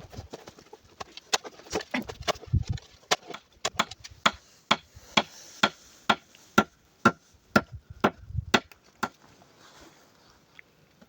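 Chopping: sharp strikes, uneven at first, then a steady run of about two a second with a faint ringing note, stopping about nine seconds in.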